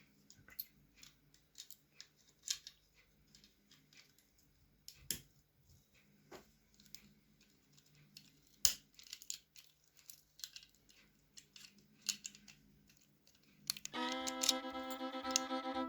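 Small, scattered metallic clicks and scrapes of an old lock being worked at, its insides clogged with wax left by bees; one sharp click stands out more than halfway through. Music comes in near the end.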